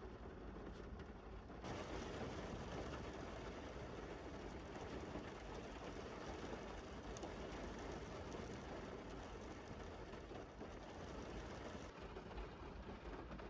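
Rain falling on a car's roof and windows, heard from inside the car as a steady hiss that grows louder about two seconds in.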